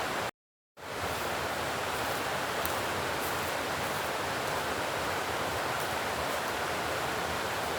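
Steady outdoor rushing noise, broken by about half a second of dead silence just after the start where the recording cuts.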